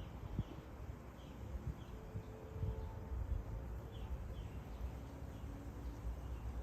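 Outdoor ambience: faint short, high chirps repeating every second or so over a low rumble of wind or handling noise.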